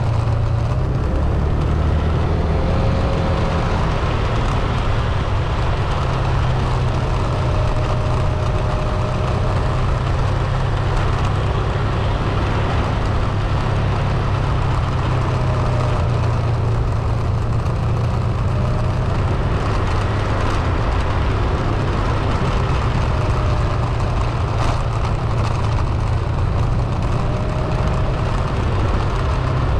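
Car driving: steady engine and road noise, a constant low hum with faint short whines now and then.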